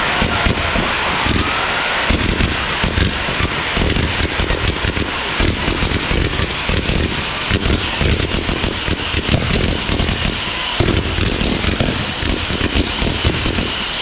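Fireworks display going off: a dense, continuous barrage of rapid bangs and crackling shells with no let-up.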